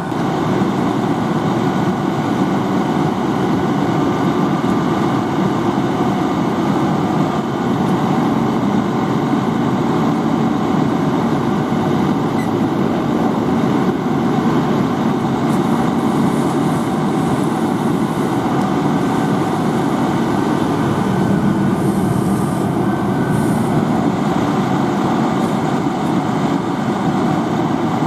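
A fire engine's diesel engine running steadily and loud, a dense rumble with a faint whine riding over it. It steps up in level right at the start and then holds.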